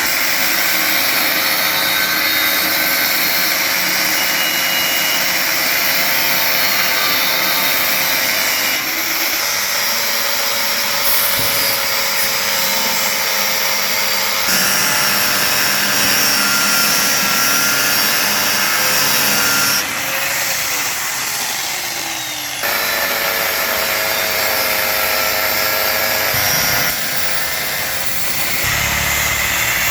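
Power tool running continuously under load, a loud, even whine-and-rush, broken by several sudden jumps in its sound. In one stretch a tone drops in pitch for a couple of seconds.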